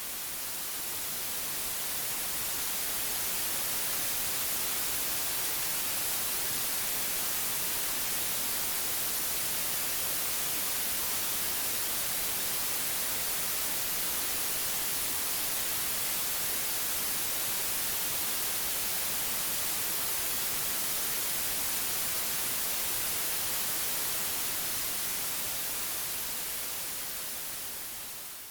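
White noise: a steady, even hiss with no tones or clicks. It swells up over the first few seconds and fades down near the end.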